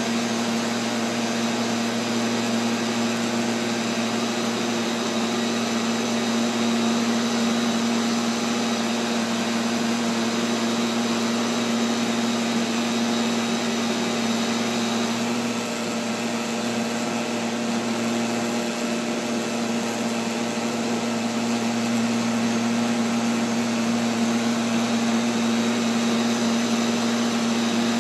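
Neato XV-11 robotic vacuum cleaner running, heard from a camera mounted on the robot itself: a steady motor and suction hum with a constant pitch, easing slightly about halfway through.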